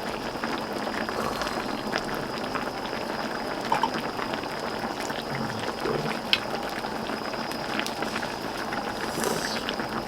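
Pot of gamjatang stew boiling on the burner, a steady bubbling with scattered small pops and clicks.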